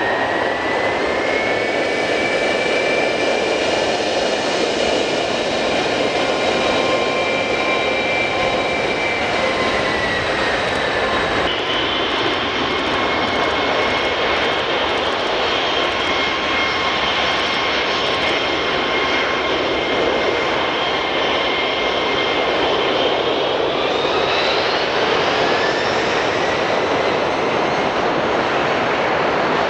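Three-engined jet airliner's engines running with a loud, steady roar and high whining tones. The whines slide down in pitch about eleven seconds in and rise again near the end.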